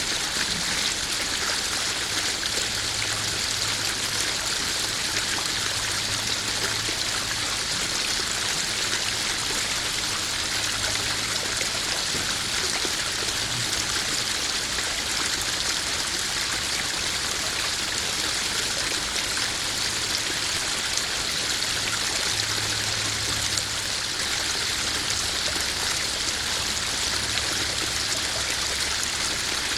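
Small garden waterfall splashing steadily into a koi pond.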